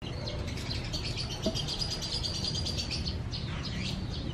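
Small birds chirping and twittering: a fast high trill, then several quick downward chirps near the end, over a steady low rumble.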